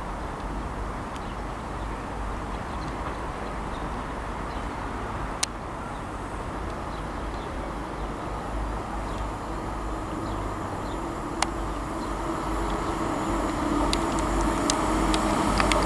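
Grand Central Class 180 diesel multiple unit approaching through the station at speed, its rumble and engine tone building steadily louder toward the end. Two sharp clicks stand out, about five and eleven seconds in.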